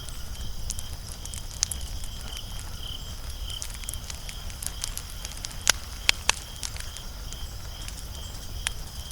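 Wood fire crackling: scattered sharp pops, the loudest a quick cluster of three about six seconds in, over a low steady rumble.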